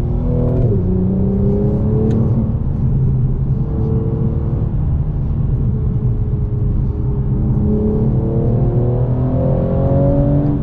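Mercedes-AMG E43's 3.0-litre twin-turbo V6 driving along. The engine note drops sharply once about half a second in, holds, then climbs steadily over the last few seconds as the car accelerates, over a constant low road rumble.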